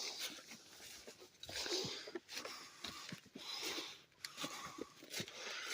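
Footsteps crunching on the forest floor during a walk through woods, a step every second or two.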